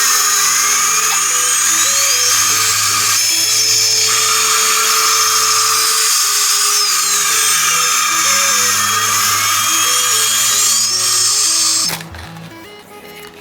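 Loud, high-pitched jet-engine sound effect, a hissing whine that dips and rises in pitch twice, over background music. It cuts off abruptly about twelve seconds in, leaving only the music.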